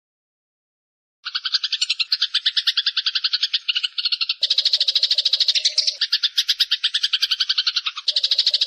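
Eurasian tree sparrow's long, rapid chattering call, a fast run of sharp notes. It starts about a second in after a dead-silent gap and shifts abruptly in tone a few times.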